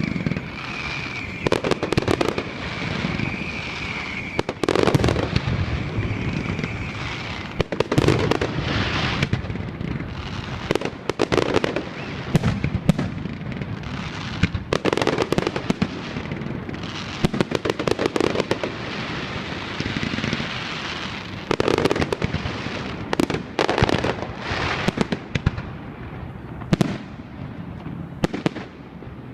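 Fireworks display: a rapid series of aerial shell bursts, bangs every second or two with crackle between them, and a steady high whistle over the first several seconds.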